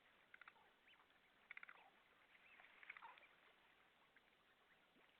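Faint, scattered calls of several wild birds: quick rattling runs of short notes and a few brief whistles that slide in pitch, the busiest about a second and a half in and around three seconds.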